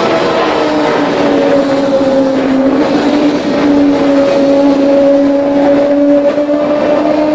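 Kawasaki ZX25R inline-four through a custom exhaust, running at high revs with a steady, high engine note that dips slightly in the first couple of seconds and then climbs slowly.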